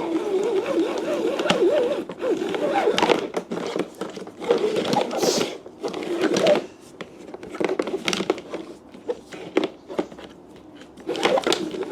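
Pressure washer hose being wound by hand onto the machine's hose reel: irregular clicking and rattling of the reel, with the hose dragging and rubbing, easing off for a few seconds before picking up again near the end.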